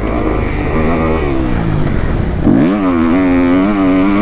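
Kawasaki KX250F four-stroke dirt bike engine under riding throttle: it wavers and drops off, then revs up sharply about two and a half seconds in and holds high revs near the end.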